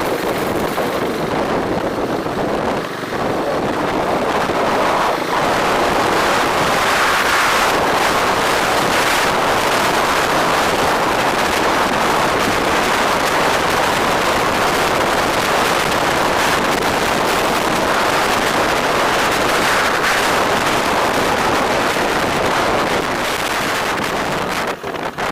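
Loud, steady wind rush on the microphone of a camera riding on a moving bike, with vehicle and road noise beneath it.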